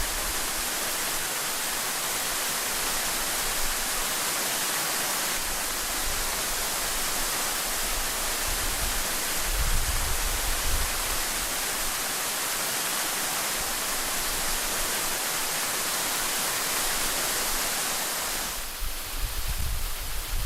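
Waterfall's steady rushing hiss, with strong wind buffeting the microphone in low rumbling gusts around the middle and again near the end.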